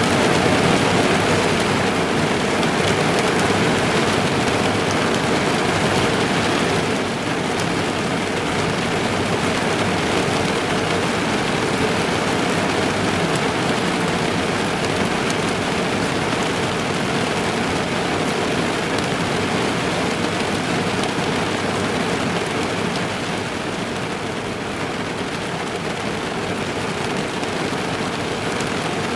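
Heavy rain drumming on a car's roof and windows, heard from inside the car: a dense, steady hiss of drops with many fine ticks, easing slightly about seven seconds in and again later.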